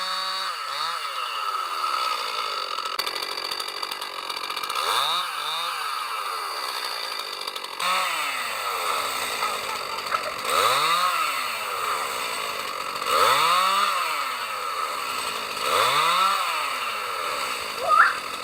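Chainsaw running and revving up and falling back again and again, about every two to three seconds, as it works through wood.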